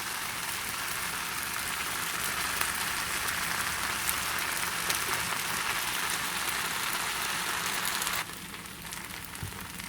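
Stir-fried noodles sizzling in a hot pan, a steady hiss that drops off suddenly about eight seconds in.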